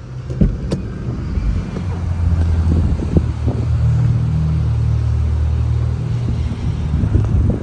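Honda HR-V's 1.5-litre four-cylinder petrol engine running with a steady low hum. It grows louder over the first couple of seconds, then holds an even pitch, with a few light knocks over it.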